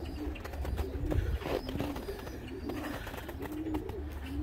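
Domestic pigeons cooing: low coos repeating and overlapping, with a few short clicks among them.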